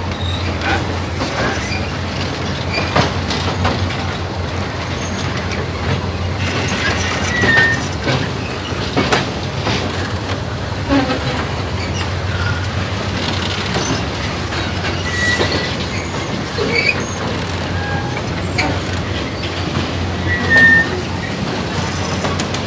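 Train running along the track, heard from inside a carriage: a steady rumble of wheels on rail with irregular clicks and knocks, and a few brief high wheel squeals.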